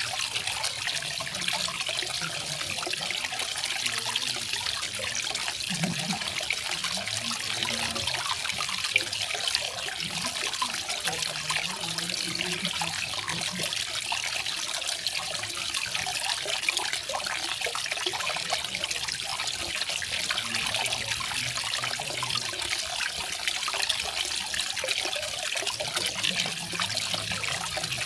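Garden waterfall: water falling and splashing in a steady, even rush, mostly high and hissy in tone.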